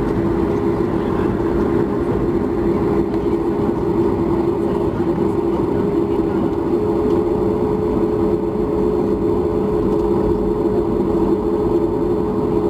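Steady drone inside the cabin of a Boeing 737 MAX 8 on the ground after landing: its CFM LEAP-1B engines at idle together with the cabin air, a constant hum with a steady low tone.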